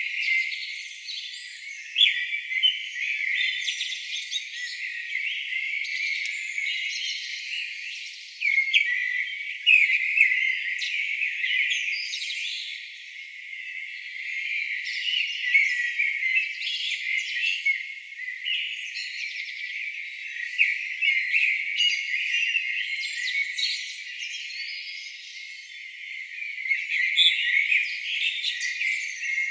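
Birdsong: several birds singing at once, a dense, continuous mix of overlapping high chirps and trills. The sound is thin, with no low sounds at all under the birds.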